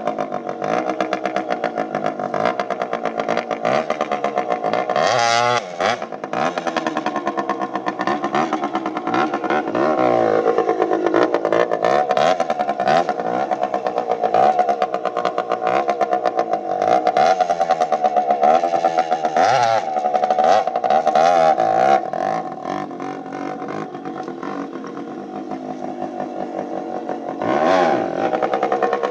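Pit bike engine revved again and again, its pitch rising and falling with each blip, with rapid popping and crackling from the exhaust as it throws flames. It drops to a lower, quieter run for a few seconds before a last rev near the end.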